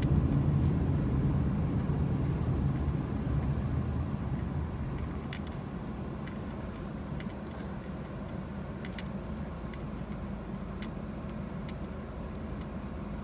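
Car interior road noise: a steady low rumble that eases off over the first half as the car slows, with scattered faint ticks of rain hitting the car.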